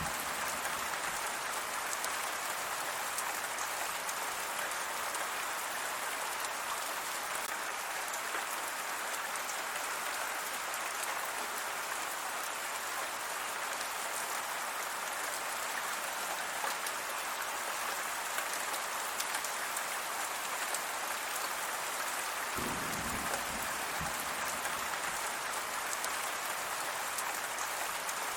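Steady rain falling and pattering on surfaces, an even hiss of many drops with no pause. A brief low rumble comes in about two-thirds of the way through.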